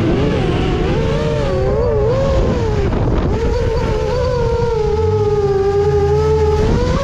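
Drift car engine held high in the revs through a slide, its note wavering up and down with the throttle. The note sinks slowly in the second half and climbs again near the end.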